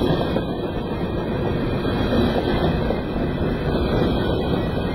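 Covered hopper cars of a freight train rolling past at about 30 mph: a steady rumble of steel wheels on the rails.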